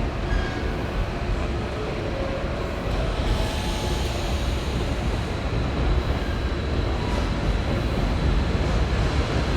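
Hankyu 1000 series electric train moving along the platform: a steady low rumble of wheels and running gear, with a thin high whine over it, growing slightly louder.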